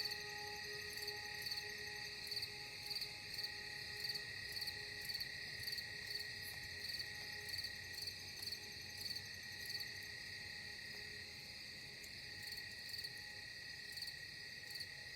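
Crickets chirping about twice a second over a steady, high insect trill. Faint, sustained ambient music tones fade out during the first half.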